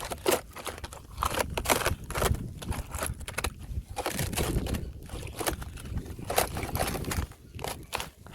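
Fresh thin ice crunching and crackling as it breaks, a quick irregular run of sharp cracks.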